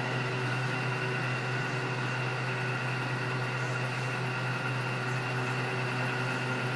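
Small electric motor running steadily with an even hum and a faint whine, then cutting off abruptly.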